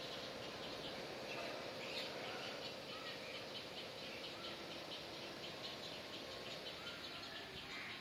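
Birds chirping: a quick, steady run of high-pitched chirps that keeps going without a break.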